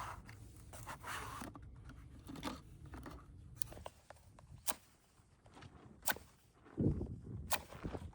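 Dry wood crackling and snapping, with a few sharp pops over rustling handling noise and a dull thump near the end.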